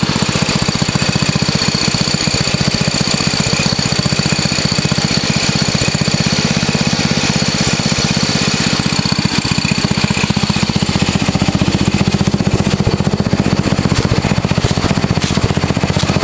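Craftsman riding lawn tractor's engine running steadily while the tractor drives along, a rapid, even chugging of firing pulses with a steady high whine above it.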